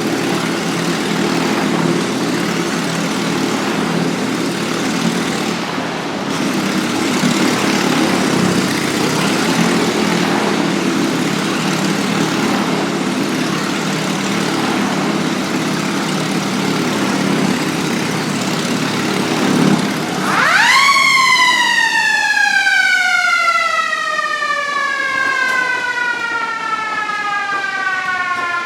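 Motorcycle engine running steadily as it circles the wall of death, cutting out about twenty seconds in. A siren then wails up sharply and slowly winds down.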